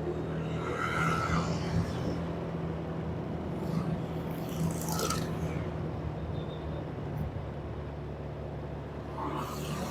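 A vehicle engine running with a steady low hum, with brief louder traffic noises about a second in, around five seconds in, and near the end.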